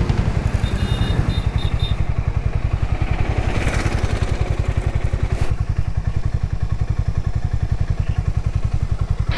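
Motorcycle engine running, with a steady, rapid pulsing beat.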